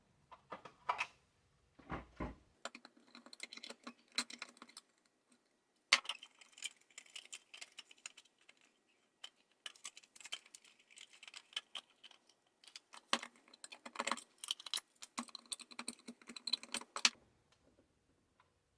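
Light clicking and rattling of small parts and hand tools being handled while working on a Magic Bullet blender's wiring, in quick irregular runs like typing, with one sharper click about six seconds in; it stops a little before the end.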